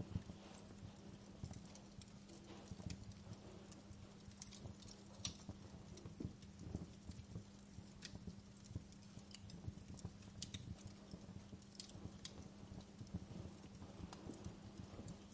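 Wood fire crackling: irregular small pops and snaps, a few sharper than the rest, over a faint steady low hum.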